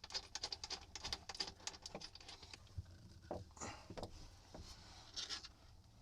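Quick run of light clicks and ticks, then a few scrapes, as a battery cable lug is fitted onto the positive terminal and its nut is snugged down by hand.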